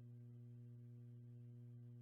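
Near silence: a faint, steady low hum with no other sound.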